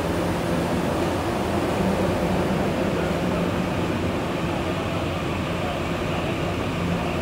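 Puyuma Express tilting electric train (TEMU2000 EMU) running as it pulls out: a steady rumble with a constant low hum.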